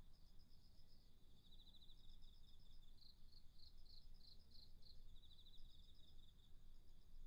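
Faint crickets chirping in a steady pulsing rhythm, with a short trill twice, over a low steady background hum.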